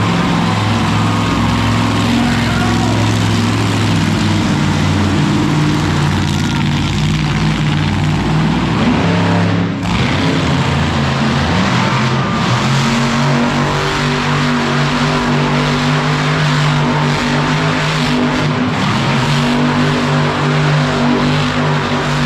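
A monster truck's big engine running loudly, holding a steady note with a few shifts in pitch and a brief drop about ten seconds in.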